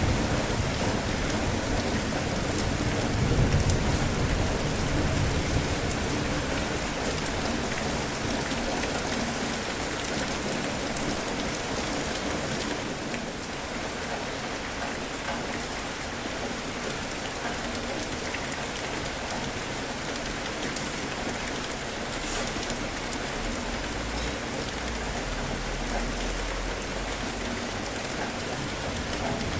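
Steady rain falling, with a low roll of thunder in the first few seconds that fades away.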